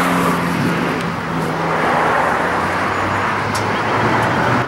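1966 Chevelle SS 396's big-block V8 running steadily at idle through its exhaust.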